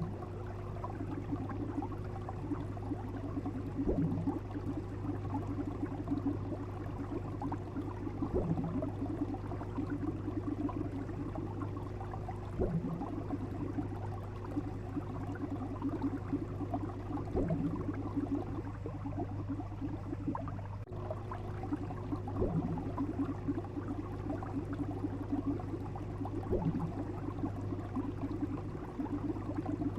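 Steady low hum under a faint bubbling, liquid haze, with a soft knock about every four to five seconds and a brief dropout about two-thirds of the way through.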